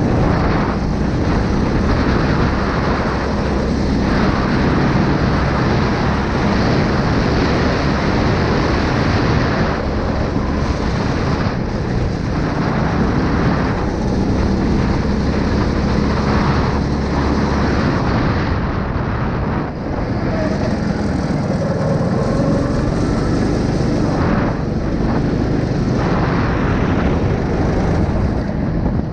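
A small 9 hp engine running steadily. Its low note changes about two-thirds of the way through, with a brief dip in level.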